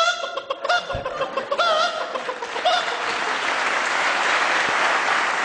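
A person imitating the cackle of a hen that has just laid an egg: a run of short, pitched clucking calls. About three seconds in, the audience breaks into applause.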